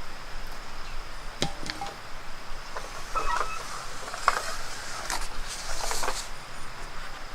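Scattered sharp knocks and light clinks from handwork, about six short strikes with a brief run of clinking in the middle, over a steady outdoor hiss.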